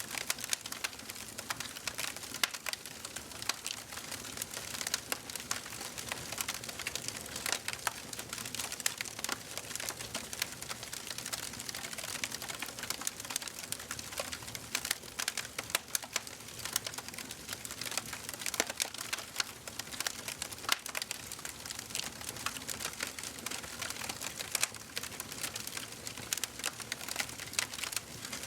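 Wood fire in a fireplace crackling: dense, irregular pops and snaps over a steady hiss, with a few louder snaps here and there.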